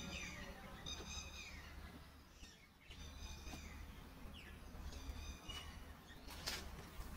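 Birds calling faintly: a short, rich call repeated about five times, a second or two apart, some with a falling tail, over a steady low hum. A brief hiss comes near the end.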